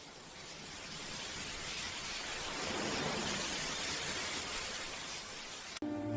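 Steady rain hiss that swells over the first few seconds. Near the end it cuts off abruptly and a steady low hum with several held tones begins.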